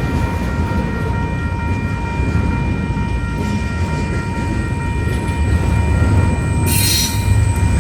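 A train running past with a heavy low rumble, wind buffeting the microphone. A steady high ringing tone runs underneath, and a brief hiss comes about seven seconds in.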